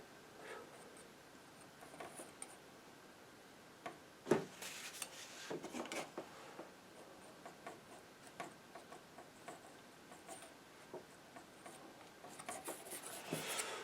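Painting knife scraping and tapping paint onto canvas and palette: faint scattered scrapes and light taps, with a sharper tap about four seconds in and a busier stretch of scraping near the end.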